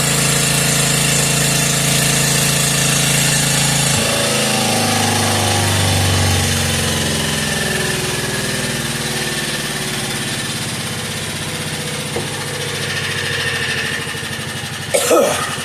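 Antique McCulloch generator's engine running steadily, then cut off about four seconds in; the generator keeps spinning and winds down slowly, its hum sliding lower in pitch, coasting like a giant flywheel. A brief loud noise comes near the end.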